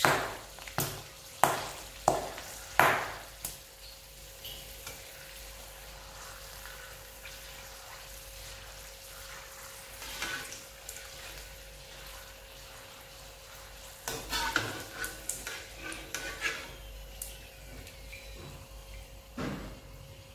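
Kitchen utensils knocking and clinking against pots and pans: five sharp knocks in the first few seconds, then quieter clicks and clinks from about two-thirds of the way in. Under them run a faint steady hiss and a thin steady hum.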